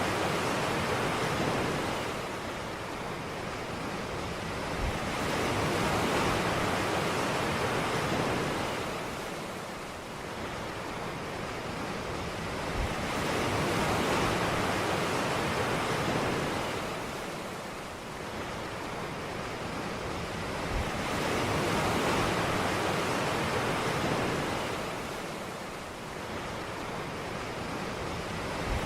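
Ocean waves washing onto a beach: a steady rush of surf that swells and eases about every eight seconds.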